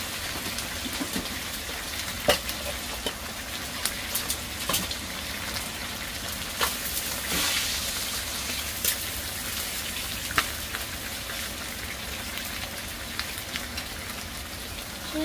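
Chicken pieces and sliced onion frying in oil in a non-stick wok: a steady sizzling hiss with scattered pops and crackles.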